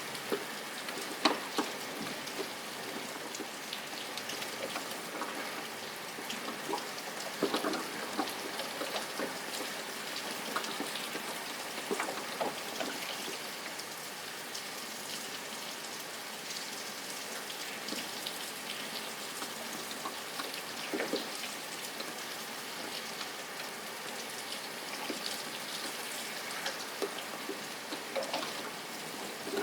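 Steady rain falling, with scattered louder drops ticking on a hard surface close by.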